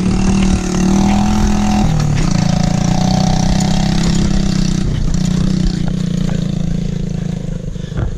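Mini bike engine running steadily, its pitch shifting a couple of times with the throttle and getting quieter near the end.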